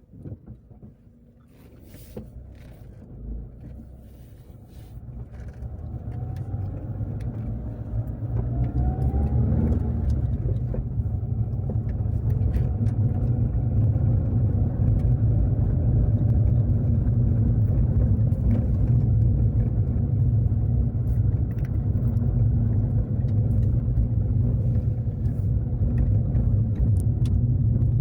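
Car driving away: a few light clicks, then engine and road noise build up over several seconds with a rising engine note as it speeds up. It then settles into a steady low rumble while cruising.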